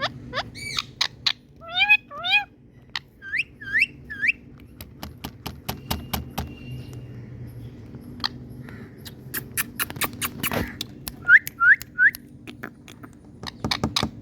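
Pet parrot giving short, hooked whistling calls in quick runs of two or three, quiet for several seconds in the middle, then another run of three near the end. Sharp clicks are scattered throughout.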